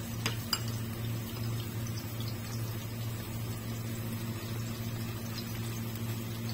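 Minced-chicken patties frying gently in a little oil in a nonstick pan, a steady low sizzle over a low hum, with two light clicks of a metal spoon against the pan about half a second in.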